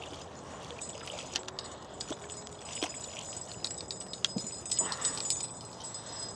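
Fishing reel and tackle giving off scattered, irregular light clicks and taps as a small sturgeon is reeled in to the boat, over a steady hiss of wind and water.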